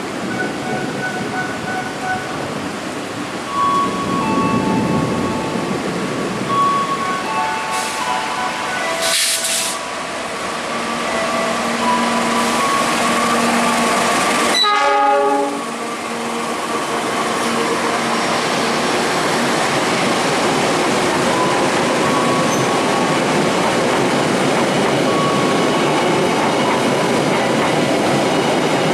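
KAI diesel locomotive approaching and passing with its horn sounding, then passenger coaches rolling by with a steady rumble and clack of wheels over the rails.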